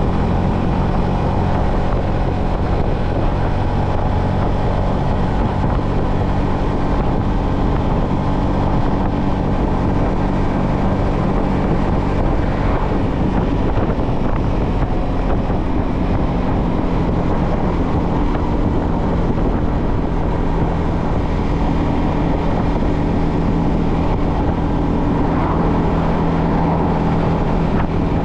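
Yamaha XSR125's single-cylinder 125 cc four-stroke engine running at a steady cruising speed on the road, with wind rushing over the microphone.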